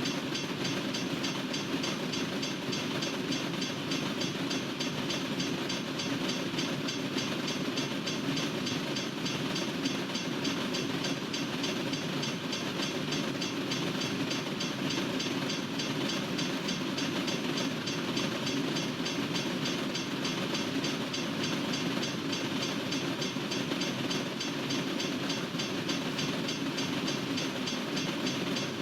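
Freight train cars rolling past steadily, their steel wheels running on the rails.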